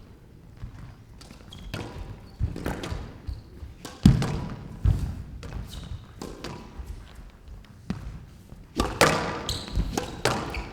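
Squash rally: a squash ball struck hard by rackets and hitting the court walls again and again at an uneven pace, the loudest hits about four and nine seconds in.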